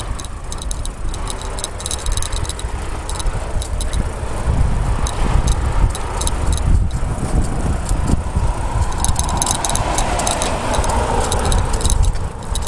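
Wind rushing over the microphone of a moving bicycle, with bursts of light rattling clicks from the bike. Road traffic noise swells in the second half.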